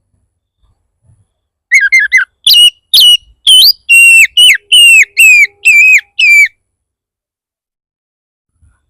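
Oriental magpie-robin (kacer) giving a fierce, challenging song burst: a few quick stuttered notes, then about ten loud whistled notes in quick succession, each sliding down in pitch. It stops abruptly after about five seconds.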